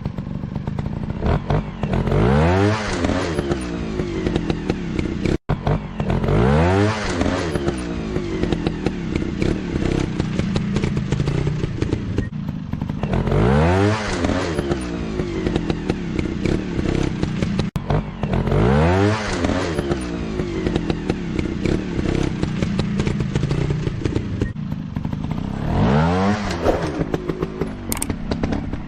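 Dirt-bike engine revving up and down, with a rising rev sweep about every five to six seconds and two brief cut-outs along the way.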